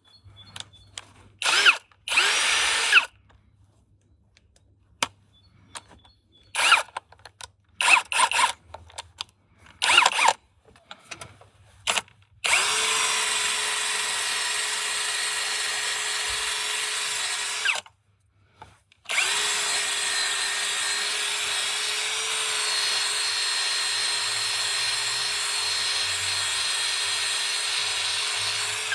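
Electric power drill running in a few short bursts, then held on for two long steady runs of several seconds each, with a brief stop between them.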